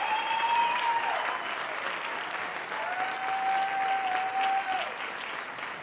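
Audience applauding after a live band's closing song, with two long held cheers from the crowd; the clapping thins out near the end.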